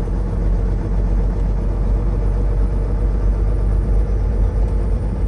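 Semi truck's diesel engine and road noise heard while driving, a steady low rumble.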